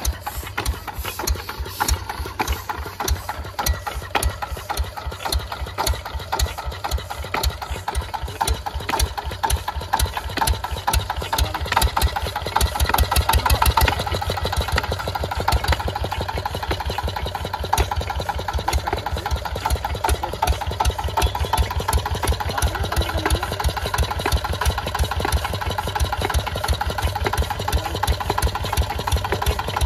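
Field Marshal Lister-type diesel engine running with a steady, even beat of firing knocks. It runs louder for a few seconds around the middle, then settles back.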